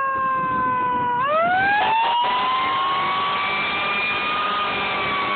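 Fire engine siren wailing. Its pitch sinks slightly, climbs sharply about a second in, then holds high and slowly falls away near the end.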